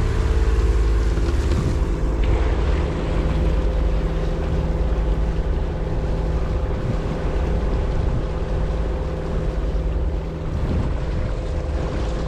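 Boat under way: a steady engine hum and rumble, with rushing water and wind on the microphone.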